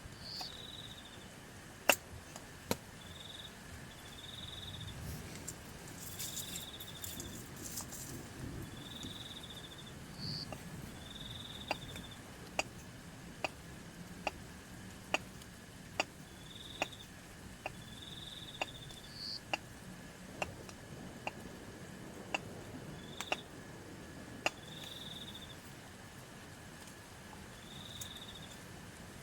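Insects calling after rain: short high chirps repeat every second or two over a steady high drone. Sharp ticks come about once a second through the middle.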